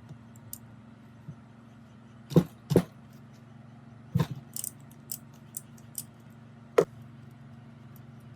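Metal tools and parts knocking and clinking during hands-on work on a rusty steering mechanism: two loud knocks close together, another about a second and a half later, a run of light clicks, and a last sharp knock, over a steady low hum.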